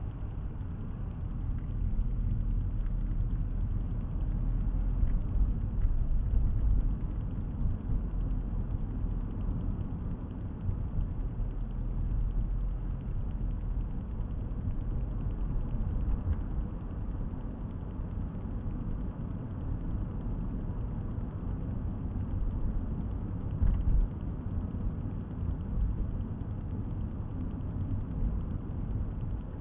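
Steady low rumble of a car's engine and tyres heard from inside the cabin through a dash camera's microphone, with one brief thump about three quarters of the way through.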